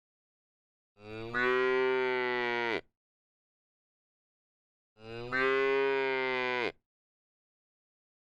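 Domestic cow mooing: two long moos about four seconds apart, each just under two seconds and dropping off at the end.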